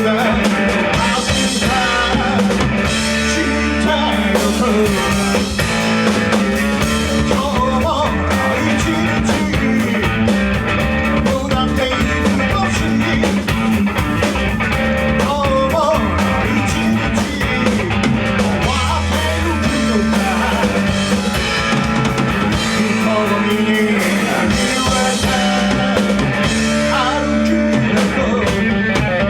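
Live rock band playing: drum kit, guitar and bass at a steady loud level, with singing.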